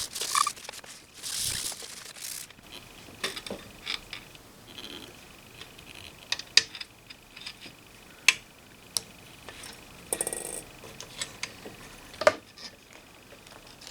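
Scattered sharp clicks and light taps of small hard parts, with a few short scrubbing passes, as the console's push buttons and knobs are cleaned by hand.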